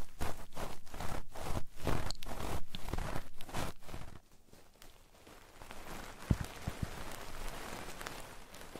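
Hands rubbing over an ASMR microphone's ears in an ear massage: quick rubbing strokes about three a second, giving way about four seconds in to softer, steady rustling with a couple of dull thumps.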